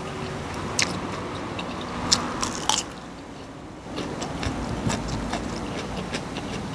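A person chewing and biting a mouthful of food close to the microphone, with sharp crunchy clicks, a cluster of them around two seconds in, and a quieter lull a little past halfway.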